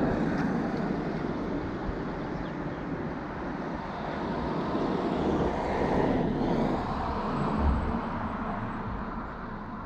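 Road traffic noise, swelling as a vehicle passes about six seconds in and fading toward the end.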